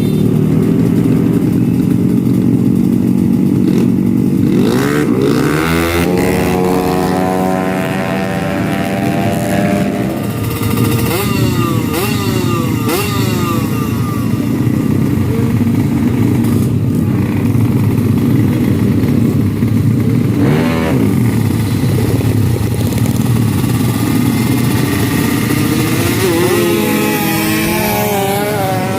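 Drag-racing motorcycle engines revving hard over a steady loud engine din, with several rising and falling engine whines as bikes accelerate and pass.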